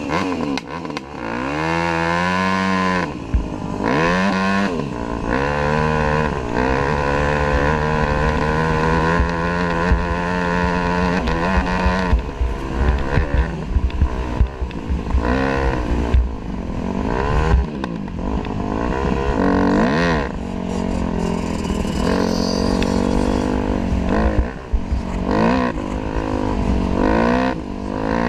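Dirt bike engine revving up and dropping back again and again as the rider works the throttle and shifts gears, with frequent knocks and rattles.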